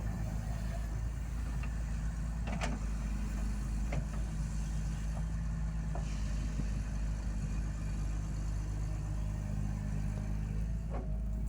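Diesel engine of a road-works machine running at a steady low speed, with a few faint clicks over it.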